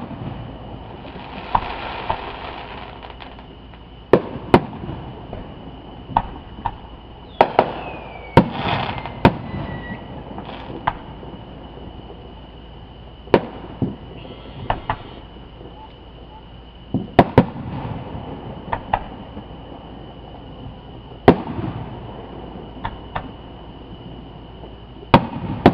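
Aerial fireworks shells bursting in the distance: about twenty sharp bangs at irregular intervals, some followed by crackling. A whistle falls in pitch about eight seconds in.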